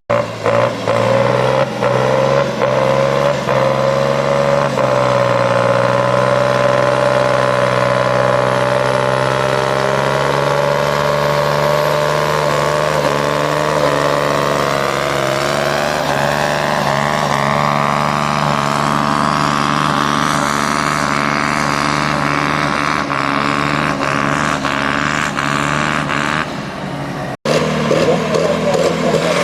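Tractor engine running hard on a pulling run, holding a steady pitch at first, then rising gradually in pitch over the second half. The sound breaks off abruptly near the end and another engine sound follows.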